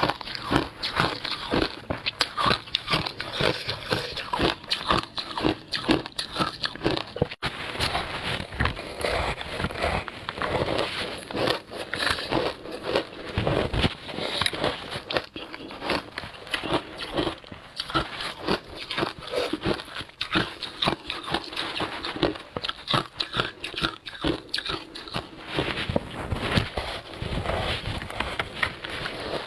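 Close-up crunching and chewing of frozen passion fruit ice: a steady run of crackling bites and chews, one after another.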